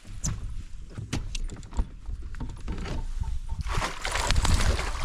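Knocks and clicks on a kayak as a hooked smallmouth bass is fought in. About three and a half seconds in, a loud burst of splashing water follows as the fish comes to the surface by the boat.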